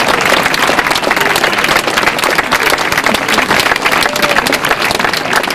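A large crowd applauding: a dense, steady patter of clapping.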